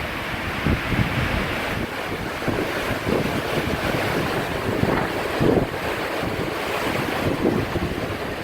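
Hurricane-force wind blowing steadily, about 70 to 80 mph, with repeated gusts buffeting the microphone in low rumbles.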